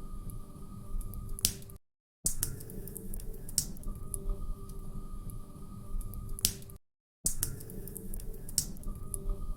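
Log fire crackling in a fireplace: scattered sharp pops and snaps over a low rumble. The sound cuts out to silence briefly twice, about five seconds apart, as the short recording loops.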